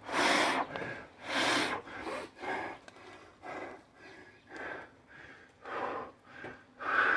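A man breathing hard, winded from Navy SEAL burpees. Two loud, deep breaths come in the first two seconds, then quicker, lighter breaths about twice a second.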